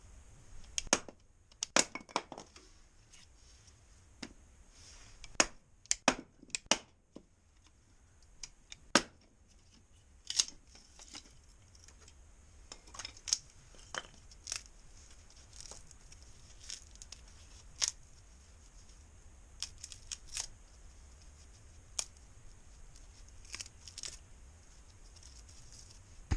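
Wood fire crackling in a wood stove: irregular sharp pops and snaps, bunched together in the first seven seconds and scattered after that.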